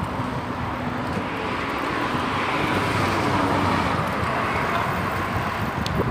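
Road traffic noise: a passing car's tyre and engine noise swells to a peak about halfway through, then eases off.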